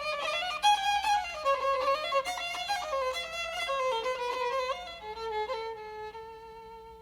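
Background music: a violin playing a flowing melody, settling about five seconds in into long held notes with vibrato that fade away near the end.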